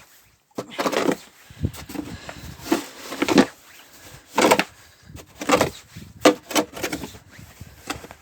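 Snow shovel scraping and crunching into drifted dry snow in a run of short, uneven strokes, roughly one every second.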